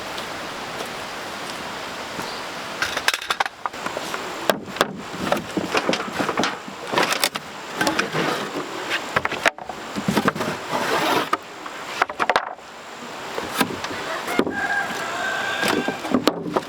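Wood and debris being handled: irregular knocks, clatters and rustling. For the first few seconds there is only a steady hiss.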